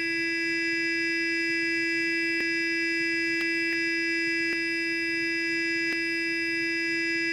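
Sonic electric toothbrush running with a steady, even buzzing hum, with a few faint clicks scattered through it.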